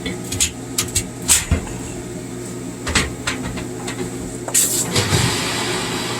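Several sharp metal knocks and clatters as the welding gear is handled. About four and a half seconds in, a stick-welding arc with a 6013 rod is struck and keeps crackling and hissing steadily.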